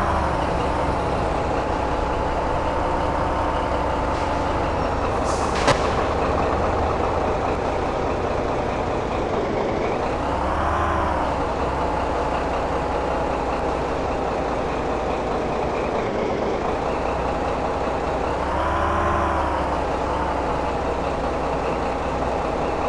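A motor running steadily with a whine that swells and rises in pitch, then falls back, twice, and one sharp click about six seconds in.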